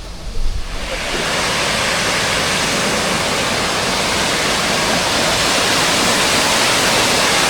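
Hotnitsa waterfall rushing, a dense steady roar of falling water that swells loud about a second in and then holds.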